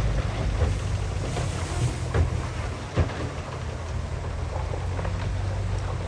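Diesel engine of heavy earthmoving machinery running steadily with a low drone, with a few sharp knocks and clatters over it.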